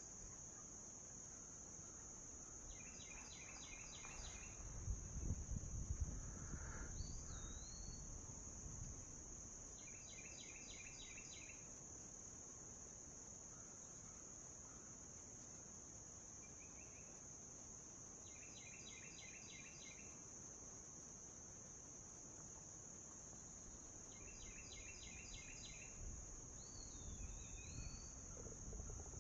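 Steady high-pitched drone of insects, with a songbird singing the same short, rapid phrase four times several seconds apart and giving a slurred whistle twice. Low rumbling noise rises about four seconds in and again near the end.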